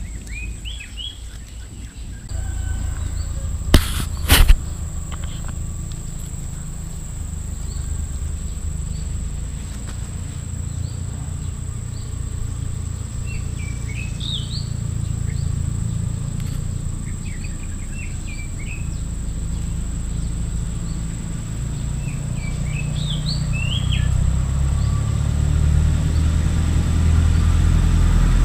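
Garden ambience: small birds chirp now and then in short rising and falling notes over a steady high whine and a low rumble that grows louder near the end. Two sharp clicks come about four seconds in.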